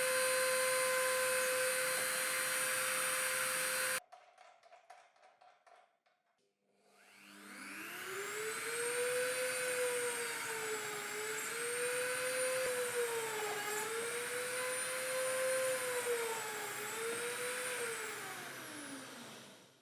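Dremel-type rotary tool in a plunge base, its motor running with a steady high whine that cuts off about four seconds in. After a short near-silent gap it spins up again, its pitch dipping and recovering several times as the bit takes load, then winds down near the end.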